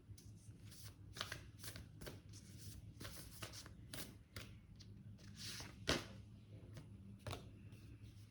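A deck of tarot cards being shuffled by hand: quick irregular riffling and slapping strokes, with a sharper snap about six seconds in, over a faint low hum.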